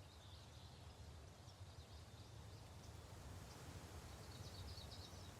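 Near silence: faint outdoor ambience with a low hum and a few faint high chirps, as of distant birds or insects.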